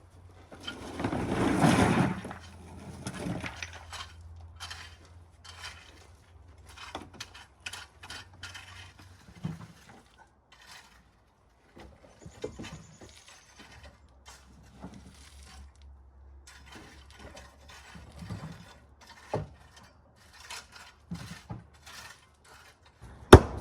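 River rocks being handled and set in place: a rush of tumbling stones about a second in, then scattered clinks and clacks of stone on stone, with one sharp knock near the end.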